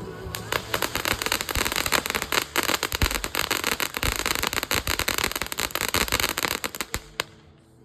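Thunderfest Fountain ground firework crackling in a dense, rapid stream of sharp pops, which stops suddenly about seven seconds in.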